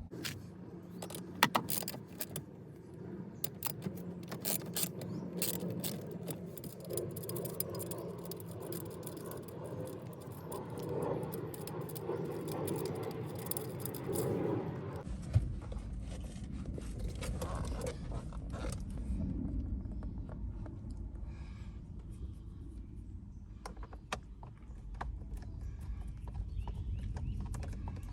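Small metal parts and hand tools clicking and jingling as they are handled, with a steady low rumble coming in about halfway.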